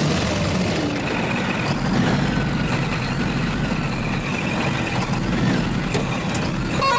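Heavy diesel vehicle engine running steadily, with a dense mechanical noise heaviest in the low end.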